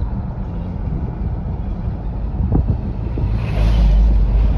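Wind buffeting the microphone, a steady low rumble that swells louder for about a second near the end.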